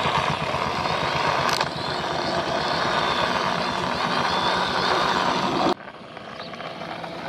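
Motor vehicle engine running with a rapid, even pulsing. It cuts off abruptly about six seconds in and gives way to a quieter, steadier engine-like sound.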